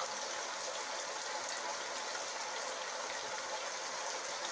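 Shower spray running steadily, an even hiss of falling water.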